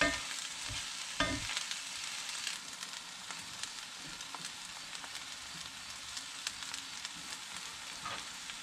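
Flaked halibut, tofu and onion sizzling in an enameled cast-iron pan: a steady frying hiss with fine crackles. A spatula knocks against the pan twice in the first second or so.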